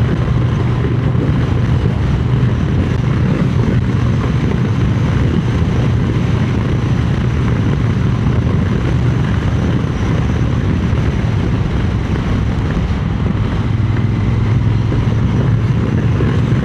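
Triumph Speed Twin 900 on the move at a steady road speed: a constant rush of wind buffeting the microphone, with the bike's parallel-twin engine running steadily underneath.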